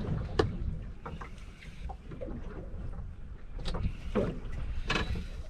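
Wind buffeting the microphone aboard a small fishing boat, a steady low rumble, with a few short sharp knocks, most of them in the second half.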